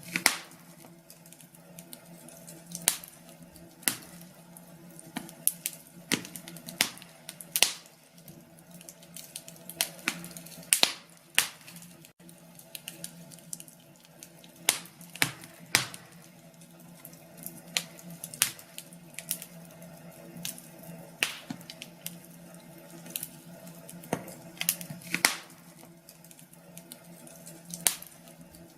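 Wood fire crackling in a fireplace: irregular sharp pops and snaps over a faint steady hum.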